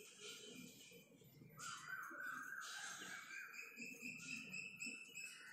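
Faint bird calls in the background: one longer call about one and a half seconds in, then a run of short repeated chirps.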